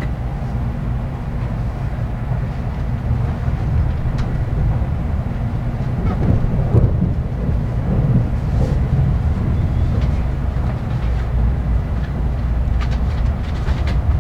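Running noise of an N700 series Shinkansen heard inside the passenger car as it pulls away from a station: a steady low rumble that grows a little louder about halfway through.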